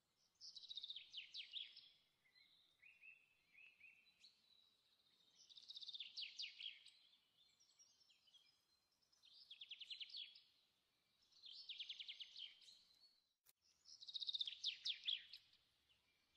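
A small songbird singing, faint: five short phrases of rapid high trilled notes, each about a second and a half long, a few seconds apart.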